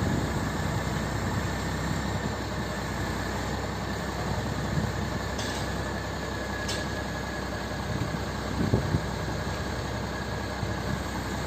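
Heavy truck's diesel engine running steadily, with a faint steady high-pitched whine over it and two brief clicks around the middle.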